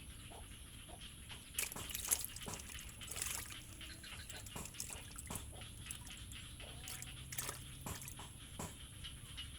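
Water dripping and splashing lightly in irregular clicks, a few a second, with a louder patch of splashy drips about two to three seconds in, over a faint steady high whine.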